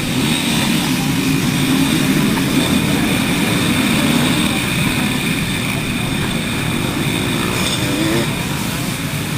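Dirt bike engine running at a steady speed, with rushing noise over it.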